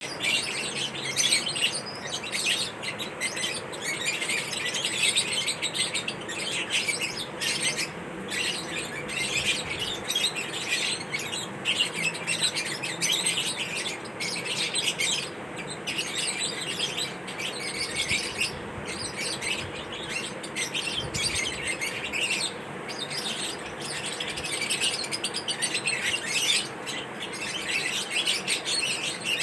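A flock of pet lovebirds chirping continuously, many rapid high overlapping chirps with occasional louder squawks.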